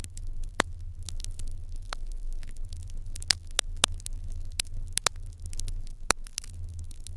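Open-hearth fire crackling: irregular sharp pops, several of them loud, over a steady low hum.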